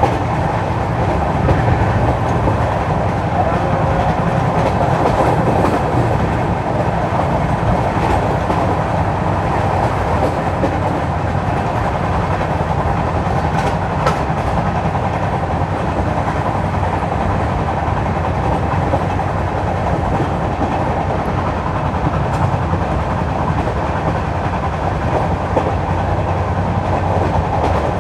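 Steady running rumble of an Indian Railways LHB passenger coach on the move, wheels on rail, heard from a window seat inside the coach.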